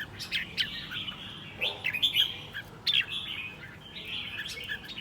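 Red-whiskered bulbul singing: short, sharp chirping notes in quick phrases, repeated several times.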